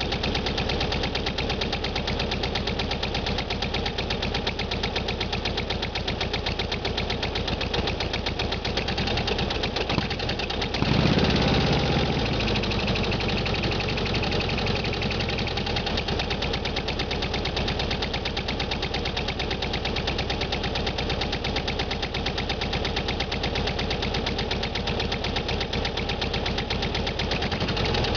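1972 Volkswagen Super Beetle's air-cooled 1600cc flat-four idling steadily after a cold start, with one short blip of the throttle about eleven seconds in that settles back to idle.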